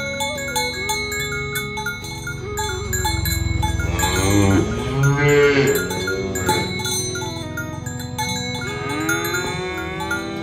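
A cow mooing twice: a long call from about three seconds in and a shorter one near the end. Gentle chime-like music runs underneath.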